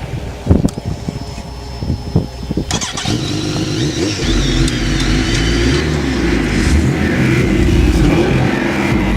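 A few sharp knocks and pops over the first three seconds, then a vehicle engine running hard and steady, growing slightly louder.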